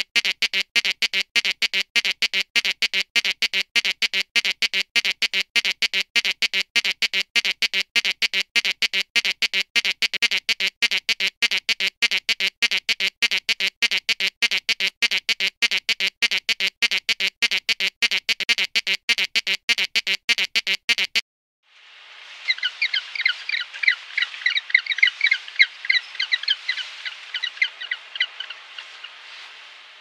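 A bird's squawking call repeated rapidly and very evenly, several times a second, which cuts off abruptly about 21 seconds in. After a short gap comes a burst of quicker, irregular high-pitched chirping and twittering.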